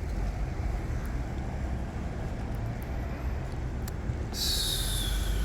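Steady low rumble of a vehicle, with a loud hiss starting about four seconds in.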